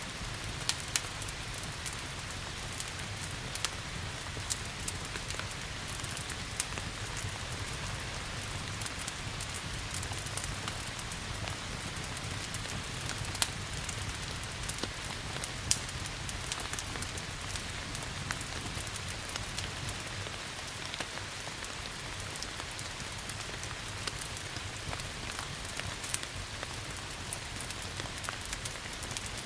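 Steady rain hiss with a wood fire crackling over it: many scattered sharp pops, a few of them much louder than the rest.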